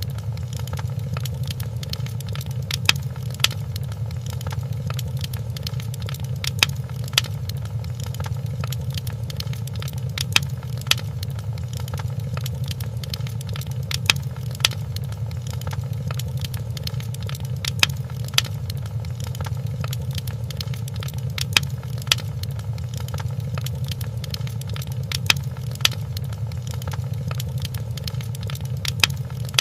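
A fireplace crackling over a steady low rumble of flames, with a pair of sharp pops about every four seconds in an even, repeating pattern.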